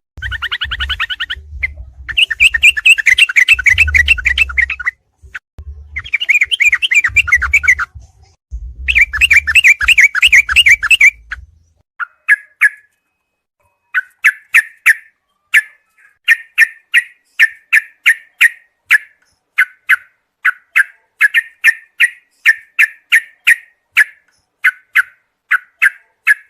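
Yellow-vented bulbul (trucukan) song: fast rattling trills in several bursts for about the first eleven seconds, with a low rumble beneath them, then a run of short separate chirps at about two a second.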